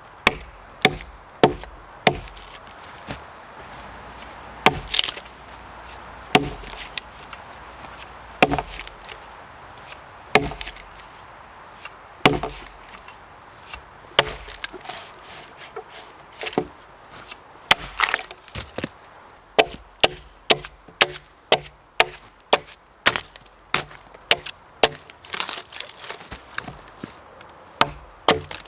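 Axe blows chopping into wood: single strikes every second or two at first, then a quicker run of strokes at about two a second in the last third.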